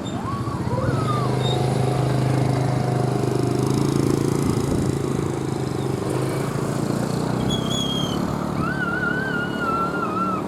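A motor engine running with a steady low hum that swells and eases. High, wavering whistle-like tones come in during the second half.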